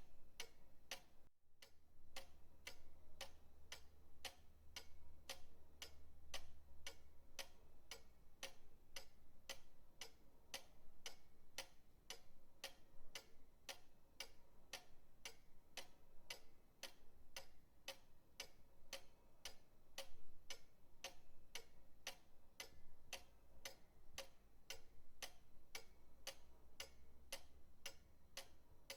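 Pendulum clock ticking steadily, about two ticks a second, with a brief dropout about a second and a half in.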